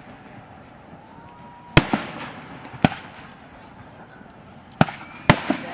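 Aerial fireworks shells bursting: four sharp booms, the first about two seconds in, the next a second later, and the last two close together near the end. Each boom trails off, and a few smaller pops follow the bursts.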